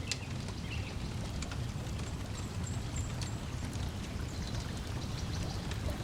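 Lake water lapping at the shore under a wood fire crackling with scattered sharp pops, and a few brief bird chirps.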